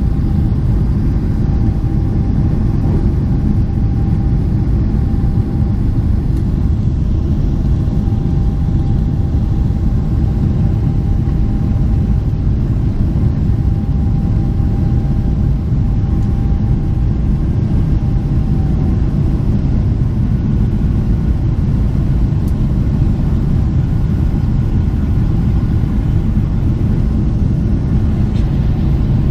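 Boeing 777 cabin noise: the steady low rumble of the jet engines and rushing air, heard from a window seat. A faint steady whine sits above it, fading out about two-thirds of the way through, with a higher faint tone coming in after that.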